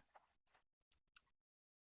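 Near silence, broken by a few faint short clicks.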